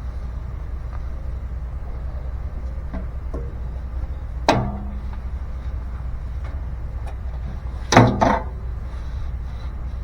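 Sharp knocks from parts and tools being handled during a blower motor swap: one knock about halfway through, then a louder double knock near the end, over a steady low rumble.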